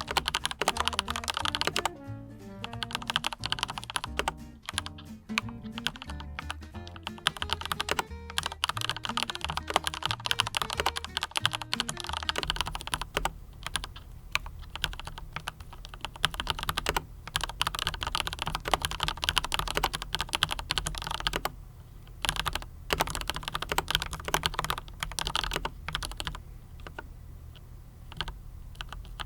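Steady, rapid typing on a NINJA87 PRO mechanical keyboard fitted with Autumn Rain switches and PBT double-shot keycaps: a dense run of key clacks, over background music.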